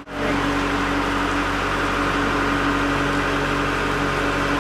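Motor cruiser's engine running steadily, an even drone with a low held hum. It comes in after a momentary dropout at the very start.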